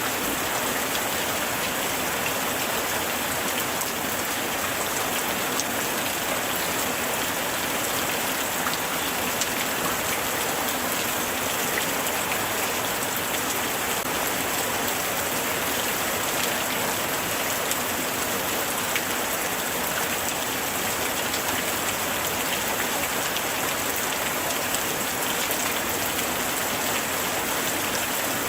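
Steady light rain falling, an even hiss of rain with scattered small drop ticks.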